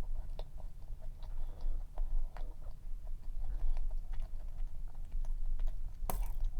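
A person chewing a dense, fudgy cream-cheese cup cookie, with small wet mouth clicks and ticks, over a steady low hum. One sharper click comes about six seconds in.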